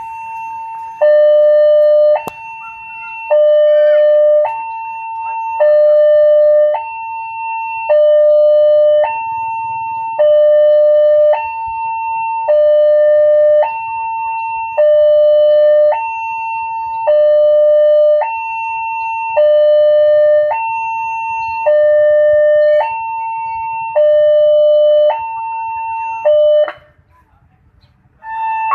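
Railway level-crossing electronic warning alarm sounding a two-tone hi-lo signal, a higher tone and a louder lower tone each held about a second, warning that a train is approaching. It cuts off near the end.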